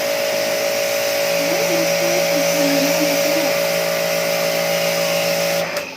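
Electric pressure washer's motor and pump running under load with a steady vacuum-like hum, water hissing from the spray gun. It shuts off suddenly near the end.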